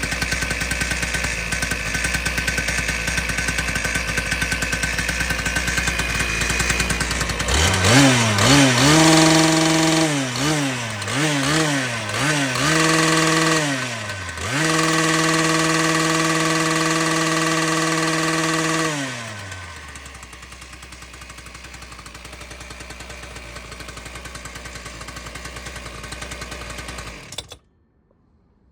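Shindaiwa ECLD7412S two-stroke engine cutter idling, then revved several times in quick blips and held at high speed for about four seconds before dropping back to idle. The sound cuts off suddenly near the end.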